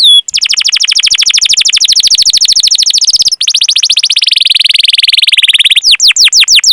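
Domestic canary singing: a long, very fast rolling trill, then a second, lower trill, breaking near the end into repeated down-slurred 'cuit' notes.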